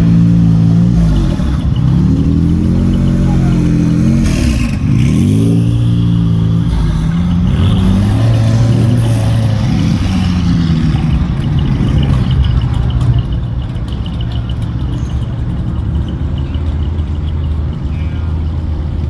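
Supercar engine accelerating hard, its pitch climbing and then dropping back with each of several gear changes. About two-thirds of the way in it settles into a steadier, slightly quieter drone.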